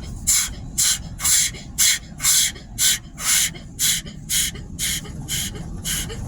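Automatic car-wash equipment sweeping over the car, heard from inside: a steady run of hissing swishes, about two a second, over a low rumble.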